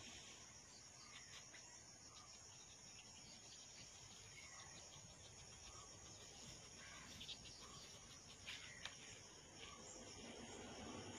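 Faint, steady high-pitched insect chorus, with a few soft ticks in the second half.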